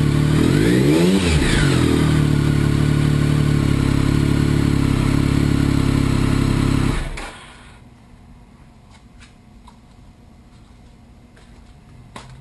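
Triumph 1050 three-cylinder motorcycle engine running through a Triumph off-road (TOR) exhaust with no catalytic converter: one quick blip of the throttle about a second in, then a steady, loud, throaty idle that stops suddenly about seven seconds in. A few faint clicks follow.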